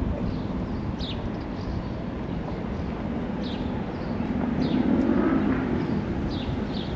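Outdoor street ambience: a steady low rumble that swells for a couple of seconds past the middle, with a small bird giving several short, falling chirps.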